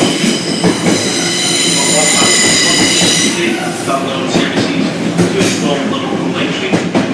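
A train running through the station with a high, several-toned metallic squeal that stops about three and a half seconds in. A steady rumble and some clatter go on after it.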